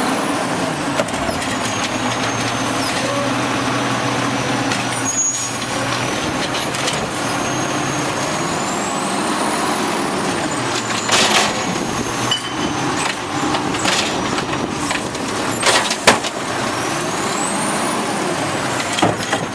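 Automated side-loader garbage truck working: its engine runs steadily under hissing. A high whine rises and falls about three times, and a few sharp knocks come through, the loudest near the end.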